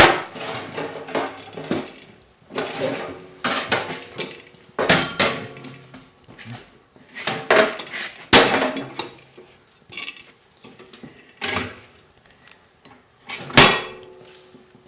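Metal tools and steel parts clanking and clinking in irregular knocks, with a few sharp metal strikes: one at the start, one about eight seconds in and one near the end.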